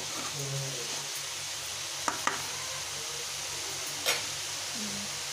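Chopped futu mushrooms with tomato and spices sizzling in a metal kadhai as they are stirred with a metal spoon. A few sharp clinks of the spoon against the pan: one at the start, two close together about two seconds in, and one more about four seconds in.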